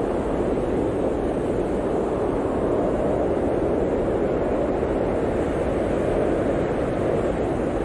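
Blizzard wind blowing steadily: a deep, even rushing noise with no breaks.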